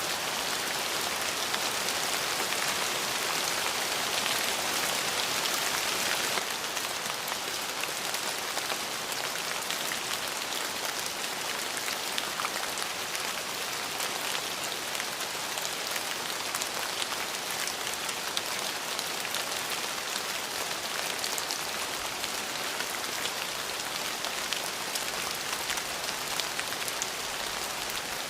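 Steady rain falling, with many individual drops ticking. It is a little louder for the first six seconds, then settles to an even patter.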